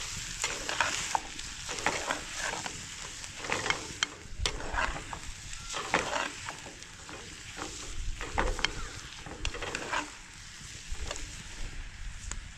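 Irregular crackling and rustling, a dense run of small snaps and clicks with no steady rhythm.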